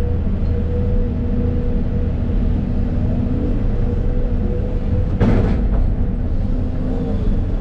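Excavator diesel engine running under load with a steady hydraulic whine, heard from inside the cab. A single short, harsh clank comes about five seconds in.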